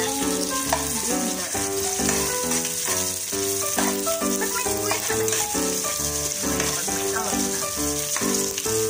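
Garlic, onion and ginger sizzling as they sauté in oil in a cooking pot, stirred with a metal ladle. A melodic background music track with a steady beat plays over it.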